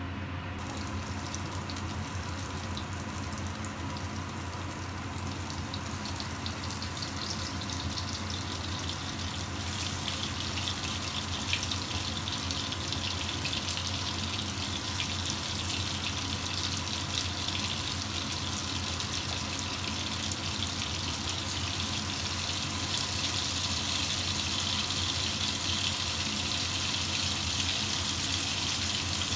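Chopped garlic and then pieces of tandoori-marinated chicken sizzling in hot oil in a nonstick wok, a steady hiss with fine crackles. The sizzle starts about half a second in and grows louder about ten seconds in and again near the end, over a steady low hum.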